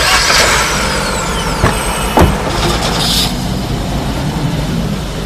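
A road vehicle running, with a steady rumble, a thin falling whine in the first second or so, and two knocks about two seconds in.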